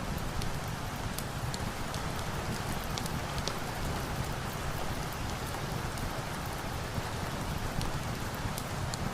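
Steady rain falling, a dense even hiss with scattered sharp ticks.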